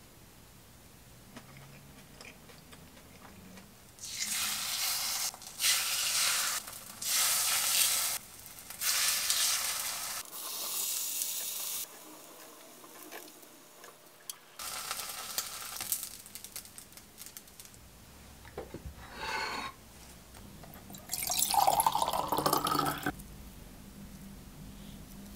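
Yukjeon, thin slices of beef dipped in flour and egg, sizzling in oil in a frying pan. It is heard in several separate bursts of a second or two each with quieter gaps between, the loudest burst near the end.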